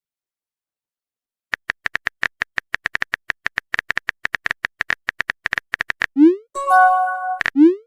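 Phone texting sound effects: after a second and a half of silence, a fast run of keyboard typing clicks for about four and a half seconds, then a short rising pop as a message is sent, a brief chime, and another rising pop near the end.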